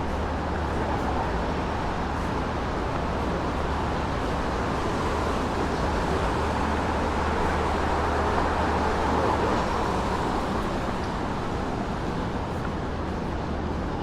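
City street ambience: a steady wash of traffic noise over a low, constant hum, swelling slightly about eight to ten seconds in.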